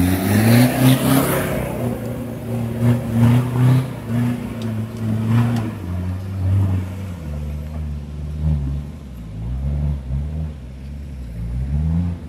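Off-road 4x4 engine revving hard. The pitch climbs steeply at the start, then repeatedly rises and falls as the throttle is worked.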